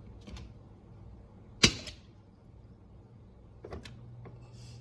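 Kitchen handling noise as butter is added to a pot of water: a few faint clicks and one sharp knock about a second and a half in, over a low steady hum.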